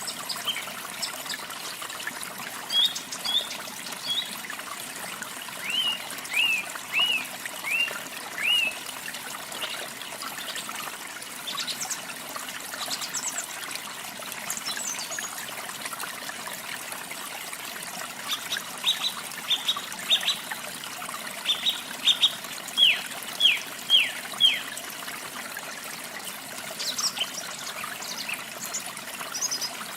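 Steady rush of water from a waterfall, with songbirds singing over it: a run of about five short arched notes some seconds in, and later a quicker series of sharp, falling notes.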